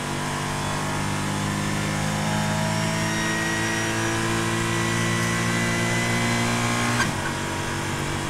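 Porsche GT4's flat-six engine at full throttle, heard from inside the cabin, its pitch climbing slowly in third gear. About seven seconds in a quick upshift to fourth gives a short sharp crack, and the engine note drops abruptly before pulling again.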